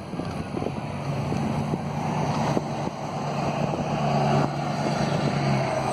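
A large vehicle engine running steadily, with a low drone that grows stronger about a second in, and wind buffeting the microphone.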